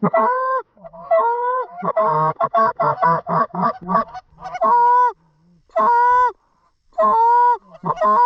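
Canada goose calling, loud and close: a fast run of short clucks, then from about halfway in, long drawn honks about once a second.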